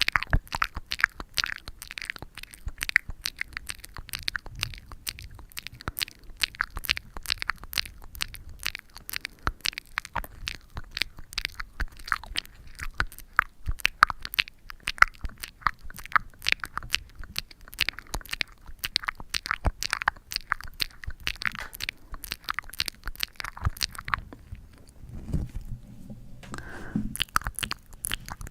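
Close-up ASMR sticky sounds: a dense, fast crackle of tacky clicks and peeling right at the microphone. It breaks off briefly near the end, a short lower sound follows, and then the crackling resumes.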